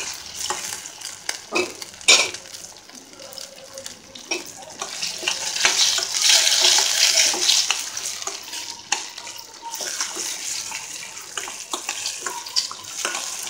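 A metal spatula scrapes and knocks against a stainless steel pot as ice apple pieces and onions are stirred in hot oil, over a frying sizzle. The sizzle swells louder for a few seconds midway.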